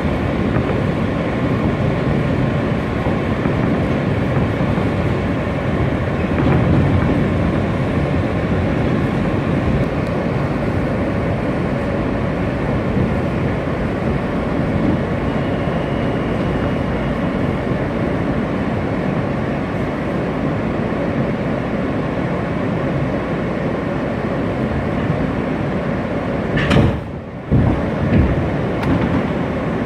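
New York subway W train car running, heard from inside: a steady rumble and rattle of the car in motion, with a short dip and a couple of knocks near the end.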